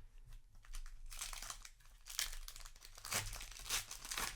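Foil booster pack wrapper crinkling and crackling as it is handled, in a run of rustles from about a second in until near the end.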